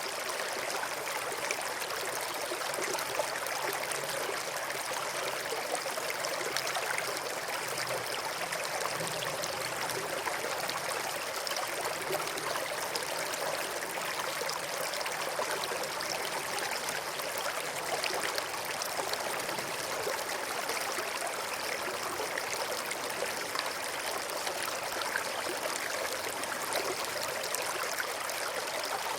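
River water flowing steadily over and between rocks, an even rushing with fine trickling and gurgling.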